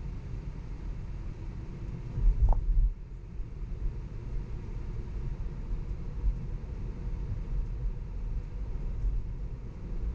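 Road and tyre rumble inside a moving Tesla's cabin, low and steady, with no engine note. A brief louder surge of rumble comes about two and a half seconds in.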